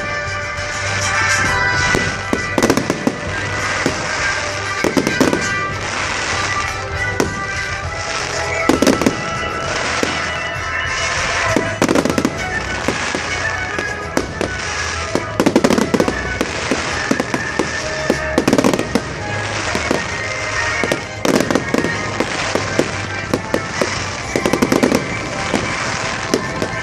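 Fireworks display: aerial shells bursting with repeated sharp bangs every second or two, some followed by crackling, over music playing throughout.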